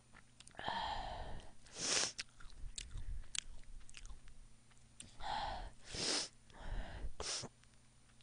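Close-miked eating sounds: chewing and mouth noises, broken up by several short breathy hisses.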